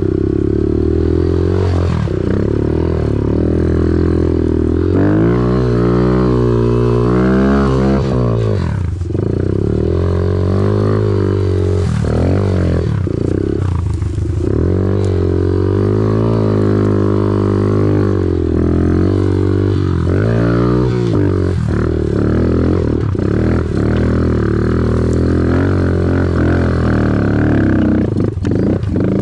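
Off-road vehicle engine running close to the microphone, revving up and down with the throttle during a steep hill climb.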